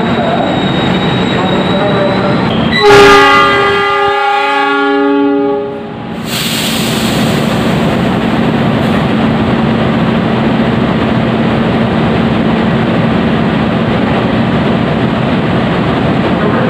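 A locomotive's horn blows loudly for about three seconds, its chord changing about halfway through. A freight train hauled by a diesel locomotive then runs through the station, a steady rumble of engine and wheels with a low hum under it.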